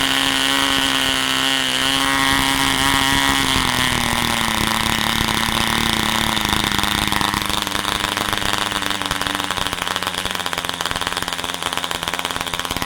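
WOHM 5cc diesel engine running at high speed with a steady whine; about four seconds in its pitch drops as it slows, and it runs on steadily at the lower speed.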